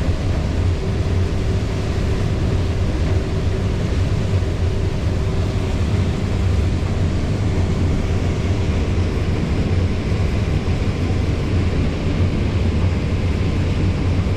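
Combine harvester running steadily under load while harvesting corn, heard from inside the cab: a constant low drone with a faint steady hum above it.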